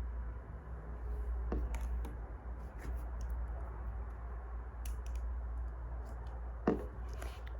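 Wood fire crackling: a steady low hiss with scattered small pops and crackles, one sharper pop near the end.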